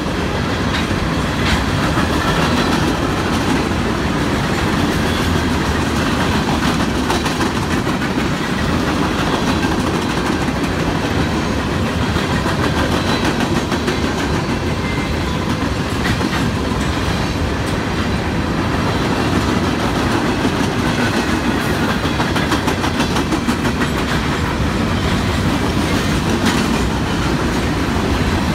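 CSX freight train's hopper cars rolling past in a steady rumble, wheels clacking over the rail joints.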